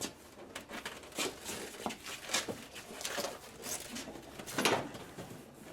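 Plastic front-end parts of a Toyota Corolla being pushed and shifted into alignment by hand: scattered light plastic clicks, knocks and scrapes, with a louder cluster of knocks near the end as the piece is worked toward its clip.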